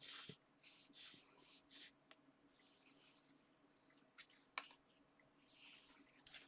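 Near silence with a few faint, short rustles of paper being handled in the first two seconds, then two light taps a little past four seconds.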